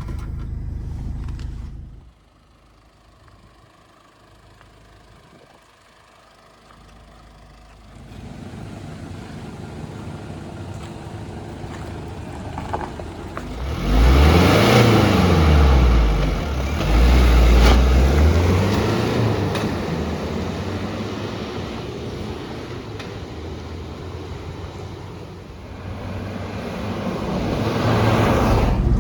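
A Ford Endeavour's 3.0-litre turbodiesel engine being driven. A loud rumble cuts off about two seconds in, then the engine sound builds and revs hard, its pitch rising and falling repeatedly through the middle, settles, and rises again near the end.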